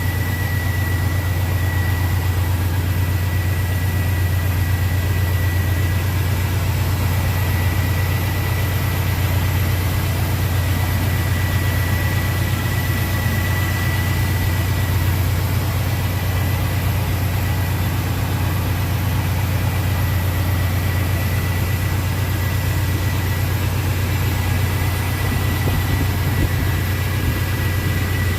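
1968 Oldsmobile 442's V8 engine idling steadily with an even low drone.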